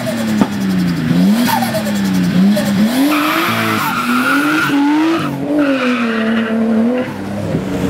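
Nissan RB25DET turbocharged straight-six engine being revved repeatedly, its pitch rising and falling with each blip of the throttle. A hiss joins in for a couple of seconds around the middle.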